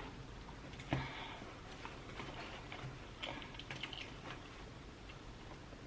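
Scattered soft clicks and crackles of a lobster tail being eaten and its shell picked at close to the microphone, with one sharper click about a second in.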